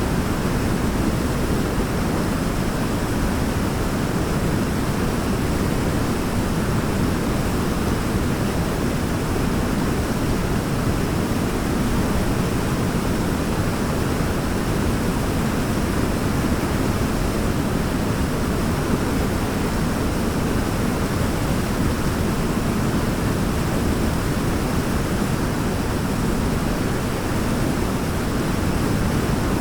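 Waterfall rushing in a steady, unbroken deep roar of falling water, with no rise or fall.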